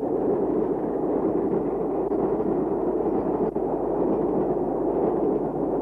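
Steady rushing noise of a steam-hauled express train running past, with no separate exhaust beats standing out.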